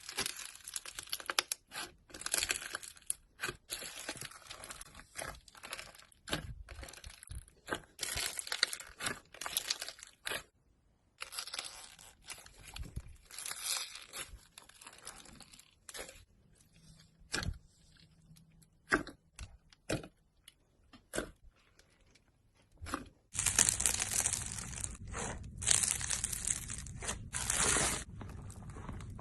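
Slime being squeezed and pulled apart by hand, with irregular crackling and popping. The crackling grows denser and louder about 23 seconds in.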